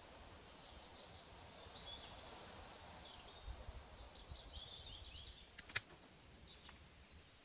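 Faint outdoor ambience with small birds chirping now and then, and a few sharp clicks or knocks about five and a half seconds in.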